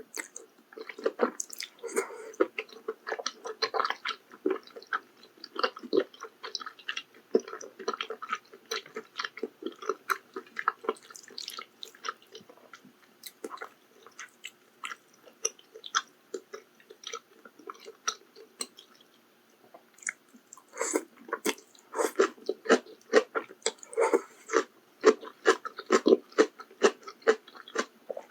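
Close-miked chewing of maratang (spicy Sichuan hot-pot soup with noodles and toppings): wet, squishy mouth sounds and soft crunches, with a short pause about two-thirds of the way through before the chewing resumes more busily.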